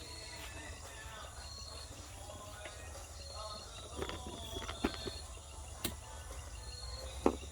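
Crunching footsteps and a few sharp snaps of dry banana leaves being stepped through, the loudest about seven seconds in. Under them an insect chirps at a high pitch about once a second, over a steady low rumble.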